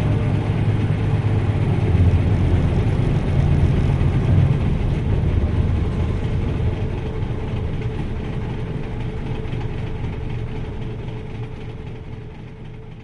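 Onboard running sound of a 1994 Nissan Diesel U-UA440LSN city bus: the diesel engine's low drone with road noise and a faint steady whine. It grows gradually quieter through the second half.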